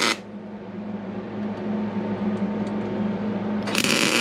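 Pneumatic air ratchet spinning the stand's lead screw, running with a loud hiss that cuts off just after the start and starts again near the end. A steady low hum continues underneath, with a few faint ticks in the pause.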